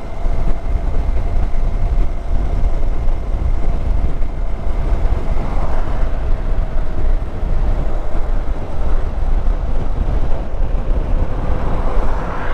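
Hero Xpulse motorcycle riding at a steady speed: wind buffeting the camera microphone over the drone of the single-cylinder engine, with a faint steady tone that sinks slightly in pitch toward the end.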